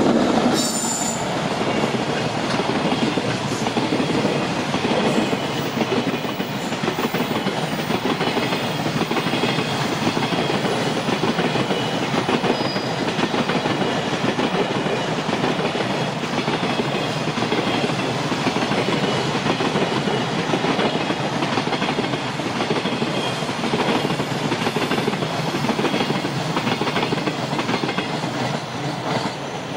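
JR Freight container train of flat wagons, hauled by an EF210 electric locomotive, passing at speed: a steady, loud noise of wheels running on the rails that eases slightly near the end.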